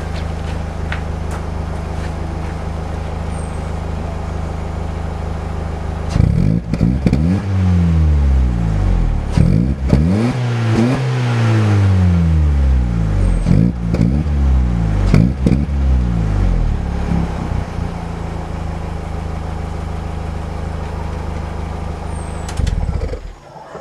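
Opel Astra H with a Paragi PA1 aftermarket exhaust, run in over 7000 km, idling steadily and then revved in a series of throttle blips, the longest and highest about halfway through. It settles back to idle and is shut off near the end.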